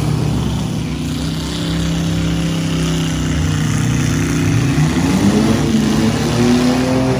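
Demolition derby trucks' engines running loudly. One engine holds a steady note, then revs up about five seconds in and stays at the higher pitch.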